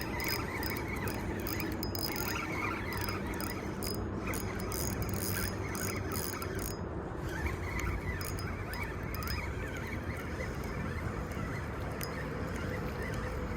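Fishing reel being cranked to bring in a hooked fish, its mechanism clicking rapidly through the first half and more sparsely after. Short squeaky chirps sound alongside it.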